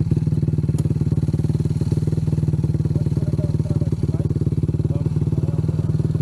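Can-Am Renegade ATV's Rotax V-twin engine running steadily, its exhaust pulsing evenly at a constant pitch with no revving.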